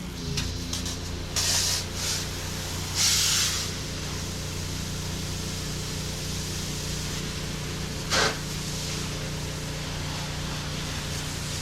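Gas-engine pressure washer running steadily, with a few short bursts of spray hissing from the wand, the loudest about three seconds in and a brief one about eight seconds in.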